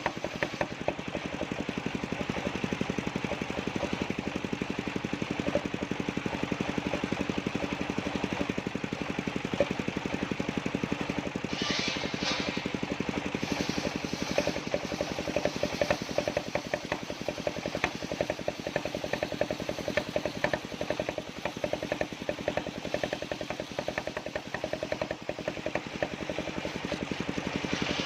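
Engine of a sawmill circular-saw rig running steadily with a rapid, even beat. A brief higher-pitched hiss cuts in about twelve seconds in.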